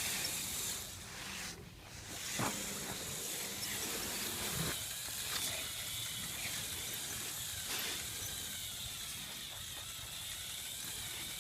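Small electric motors of a radio-controlled Lego 4x4 truck whining, their pitch wavering, over a steady hiss, with a few sharp clicks.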